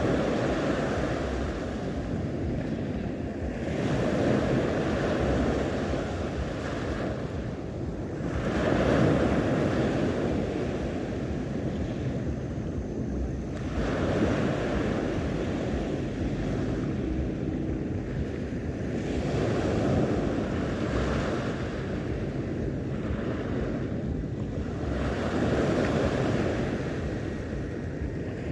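Sea waves washing onto the shore, swelling and ebbing about every four to five seconds.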